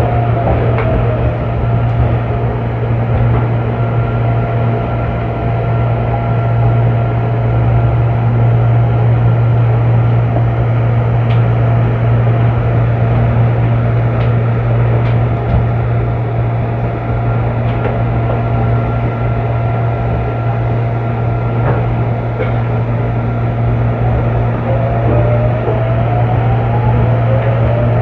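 Electric train running, heard from inside the carriage: a steady low hum with a faint constant whine. The motor whine glides down in pitch at the start and rises again near the end as the train picks up speed.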